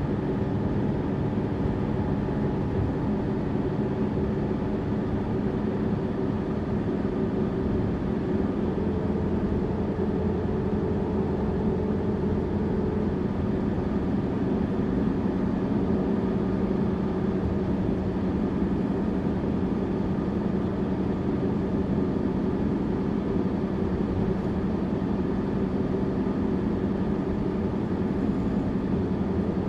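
Tourist bus engine running at an even, unchanging pitch: a steady drone throughout.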